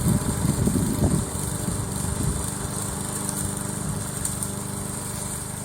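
Engine of a remote-controlled push lawn mower running as the mower is driven up a slope, louder and rougher in the first second or so, then steadier and a little quieter.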